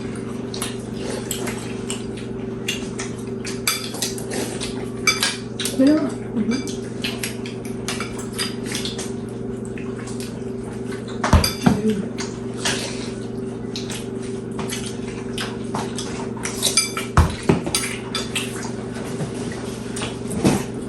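Spoons and cutlery clinking and scraping against bowls and plates during a meal of soup and dumplings, in many scattered light clicks with a couple of louder knocks. A steady low hum runs underneath.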